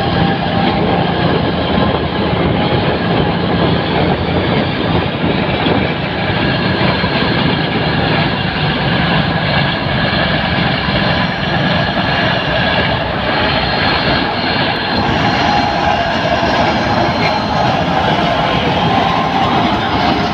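Batara Kresna diesel railbus passing close by at low speed, its engine running and its wheels rolling on the rails in a loud, steady noise, with a few steady high tones above it.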